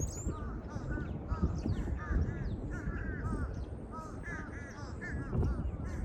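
Crows cawing over and over, many short calls in quick succession, with faint high chirps from smaller birds and a low rumble underneath.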